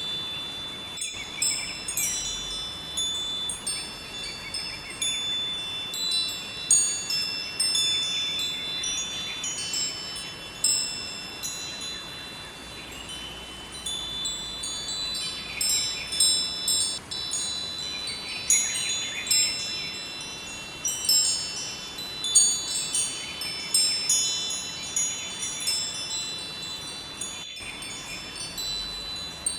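Wind chimes ringing, their high tones struck irregularly and overlapping, over a steady rushing river. The sound cuts out for an instant twice.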